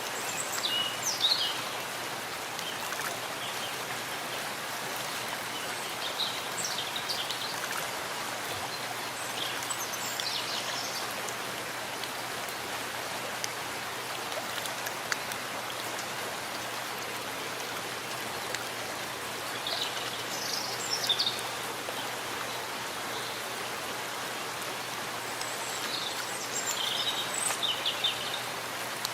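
Steady rain falling in a forest, an even hiss of drops on leaves and ground. Short, high-pitched bird chirps break in a few times over it.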